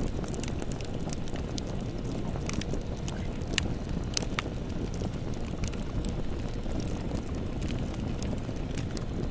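Campfire burning: a steady low rumble of flames with scattered sharp crackles and pops of the burning wood, two louder pops a little past the middle.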